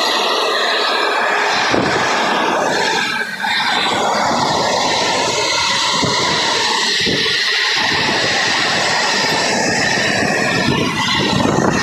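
Container freight train of flat wagons loaded with shipping containers passing close by at speed: a loud, steady rush of wheels on the rails with occasional short clatters.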